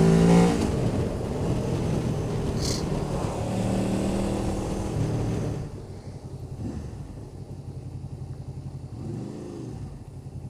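Motorcycle engine running with wind noise while riding. A little past halfway the sound drops sharply as the bike slows, leaving a quieter, pulsing engine note with a brief rise and fall in pitch near the end.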